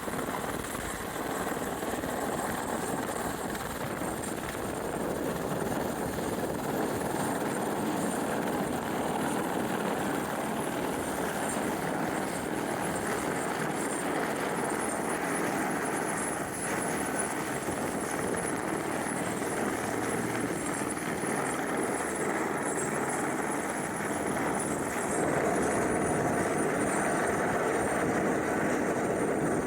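AS350 helicopter's turbine and rotor running steadily, a dense rotor rumble with a thin high whine over it; it grows louder about 25 seconds in.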